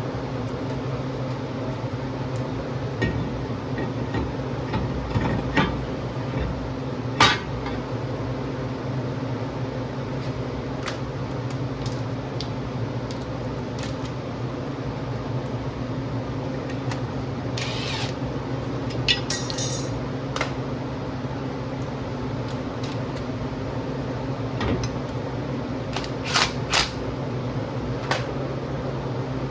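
A steady mechanical hum, with scattered metallic clicks, clanks and a brief scrape of tool work.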